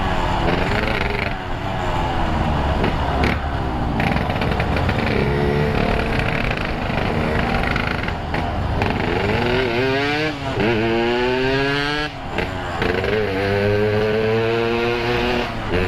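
Yamaha RX-King's single-cylinder two-stroke engine revving through a Boban C33 aftermarket exhaust. The pitch rises and falls repeatedly, with sharp climbs about ten and thirteen seconds in.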